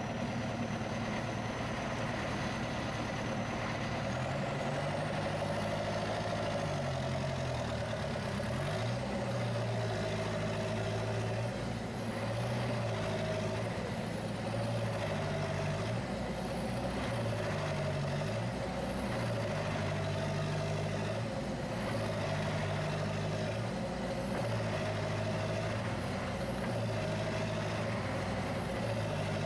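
Heavy diesel engine revving up and down over and over, about once every two seconds, with a high whistle rising and falling along with the revs.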